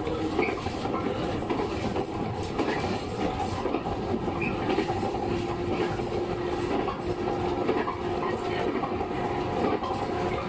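Interior running noise of a JR 115 series electric multiple unit under way: a steady rolling sound of wheels on rail with a steady hum.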